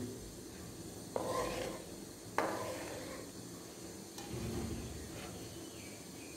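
A spoon stirring semolina halwa in a cooking pot, scraping quietly, with two sharp clinks of the spoon against the pot about a second apart early on.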